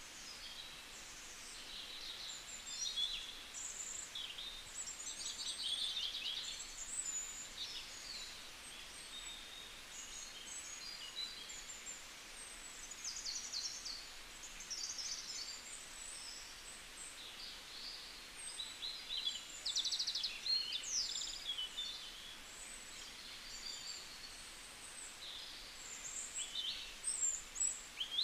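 Small birds chirping and twittering over a steady outdoor background: many short high calls and quick rattling trills, overlapping and irregular.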